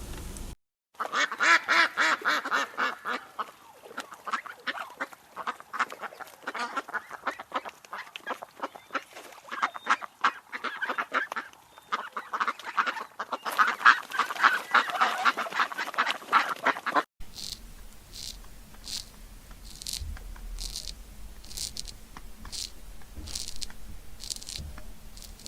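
A flock of birds calling, many short overlapping calls in quick succession, cutting off abruptly about two-thirds of the way through. After the cut come quieter repeated sharp clicks or crunches.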